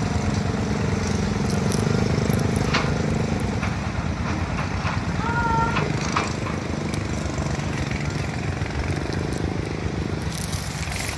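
A steady engine-like hum under wind noise, with a few sharp clicks and a short two-note whistle about halfway through.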